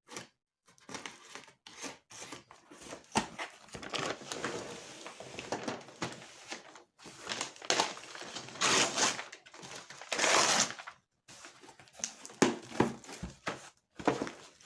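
Packaging being crinkled and rustled by hand as a parcel is unpacked, in irregular bursts, the loudest a little past the middle.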